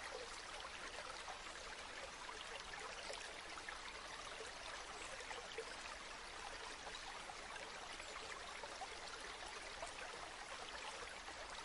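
River water flowing steadily: an even rush with fine, constant babbling detail.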